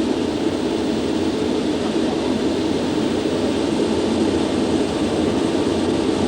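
Concorde's four Olympus 593 turbojets running at full takeoff power during the takeoff roll, heard from the flight deck as a loud, steady noise. The aircraft is accelerating between 100 knots and V1.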